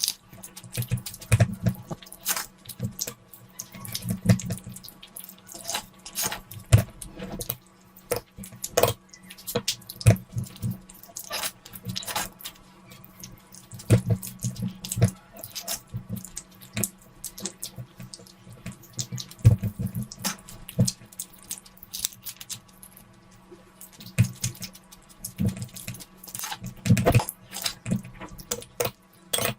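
Close-miked wet eating sounds: irregular smacking and crackling chews of someone eating a big mouthful of food.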